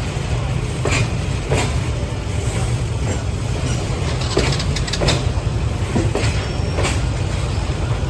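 Freight train running: a steady low rumble with sharp, irregular clacks of the wheels over rail joints.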